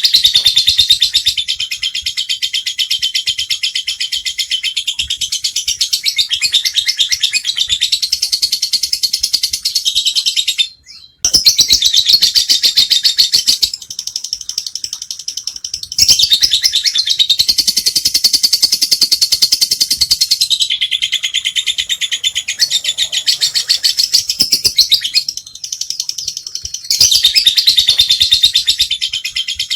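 Lovebird chattering in long unbroken bouts of rapid, high-pitched chirps, the continuous chatter that Indonesian keepers call 'ngekek'. The bird breaks off briefly about a third of the way in, then resumes.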